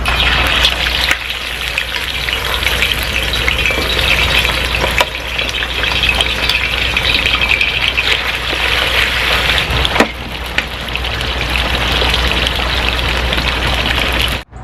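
Food frying in a pan: a steady sizzling hiss with a couple of sharp pops, cutting off abruptly near the end.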